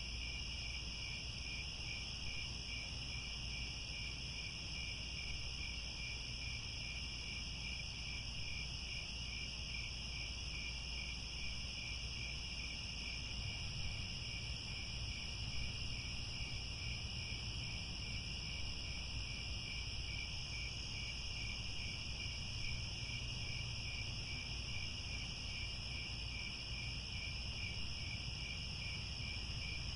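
Crickets chirping in a steady, unbroken chorus: a continuous high trill with two pitch bands and a fine even pulse, over a low steady rumble.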